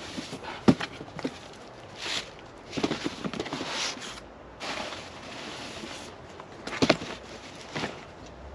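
Packaging and parts being handled: irregular rustling with a few sharp knocks, the loudest about a second in and again near the end.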